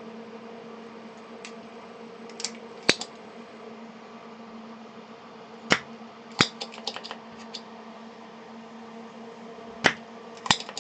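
Sharp clicks and taps of hand tools working on a circuit board while components are desoldered, with a quick run of small ticks about halfway through, over a steady low hum.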